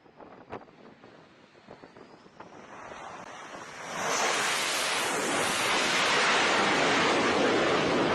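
A faint stretch with a few small clicks, then about four seconds in a loud, steady rushing noise swells up and holds.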